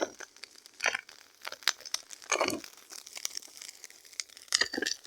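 Burning pile crackling: irregular sharp snaps and pops, with a few short rustling bursts.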